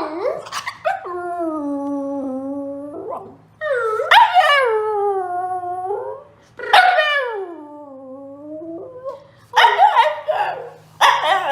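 A dog howling in long drawn-out calls, three in a row, each falling in pitch as it ends. Near the end it breaks into shorter, choppier yips and whines, like a dog "talking".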